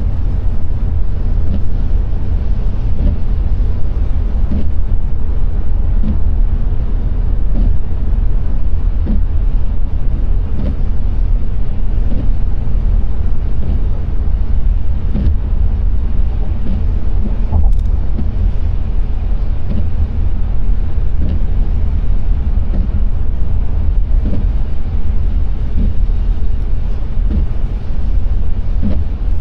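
Car driving: a steady low rumble of engine and road noise, with small scattered knocks.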